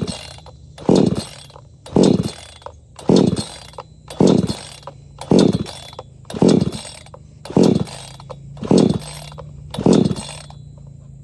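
Recoil starter of a PROYAMA 68cc two-stroke chainsaw being pulled about ten times, roughly once a second. Each pull is a short whir that falls in pitch, and the engine does not catch. It is on choke, and the owner suspects the stop switch was in the off position.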